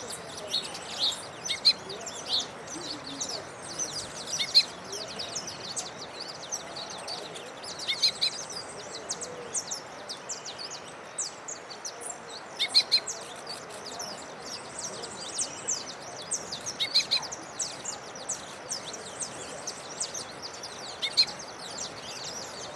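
Small songbirds chirping: many short, high chirps in quick clusters, over a steady background hiss.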